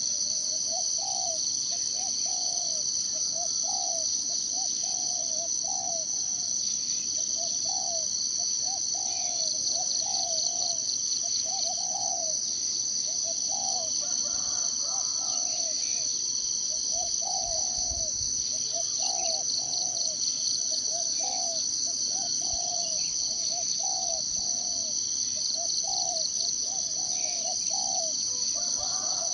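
A steady high-pitched insect chorus runs throughout. Over it, a bird repeats short low calls, about one or two a second.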